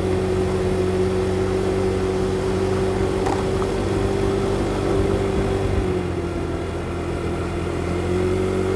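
Motorcycle engine running under steady load as it climbs a very steep hill, heard from the helmet mic with wind and road noise. The engine note holds steady, dips slightly about six seconds in and picks up again near the end.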